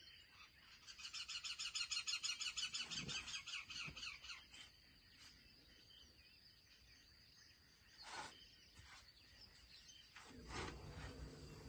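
A bird calling in a rapid trill of about ten notes a second, lasting roughly three and a half seconds, starting about a second in. A brief noisy sound follows a few seconds later, and a faint low hum comes near the end.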